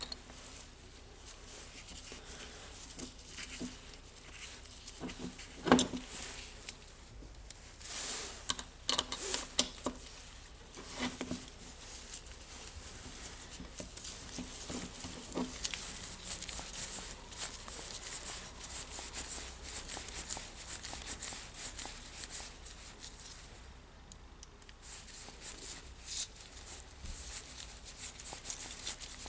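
Scattered small clicks and knocks of metal parts being handled, with stretches of quick, fine rasping as screws are turned in while reassembling a Makita DHR202 rotary hammer.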